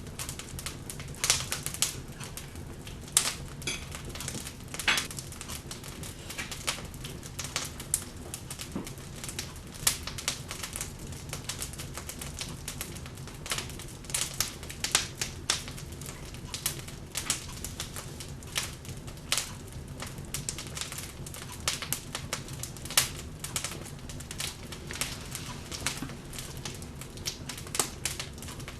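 Wood fire in a fireplace crackling, with irregular sharp pops and snaps, a few louder than the rest, over a steady low background.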